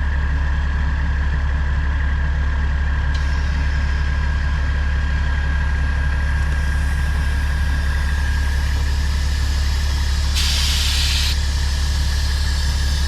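Diesel semi truck engine idling steadily, with a thin steady whine above it. A short burst of hissing about ten seconds in.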